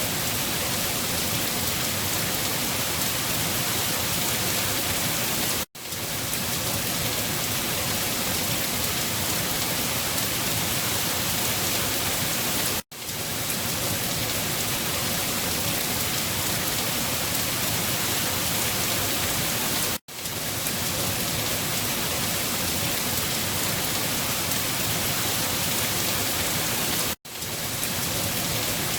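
Steady heavy rain falling, an even hiss with no thunder. It cuts out for an instant and fades straight back in four times, about every seven seconds, as a looped recording does.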